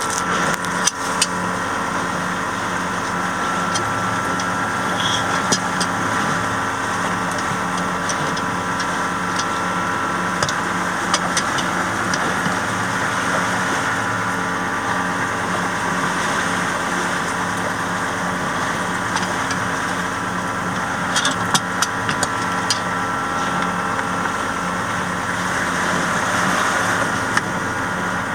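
Steady drone of an engine running aboard a sailboat, with a few short light clicks and knocks from a wrench working on a plastic watermaker filter housing.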